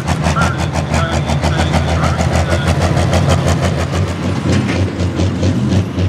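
Pro stock pulling tractor's turbocharged diesel engine running loud with a rapid, rough pulsing.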